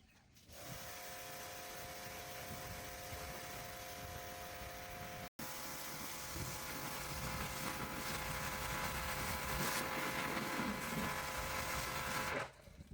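A motor-driven power tool runs steadily with a constant whine over a wide hiss, starting about half a second in, breaking off for an instant about five seconds in, and stopping shortly before the end.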